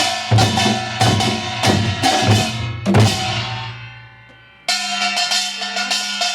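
A Korean pungmul percussion group, with janggu drums and kkwaenggwari gongs, plays a fast rhythm. About three seconds in, the playing stops and the metal ringing fades. Nearly two seconds later the ensemble starts again suddenly.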